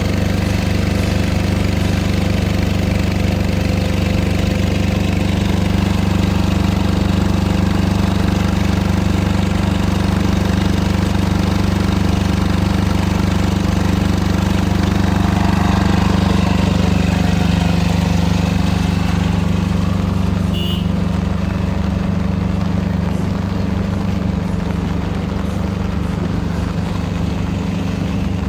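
A large engine running steadily at idle, a constant low hum over a steady background hiss.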